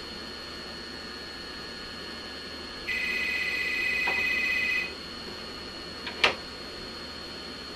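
A telephone ringing: one warbling ring of about two seconds in the middle, part of a repeating ring cadence. About a second and a half after the ring stops there is a single sharp click.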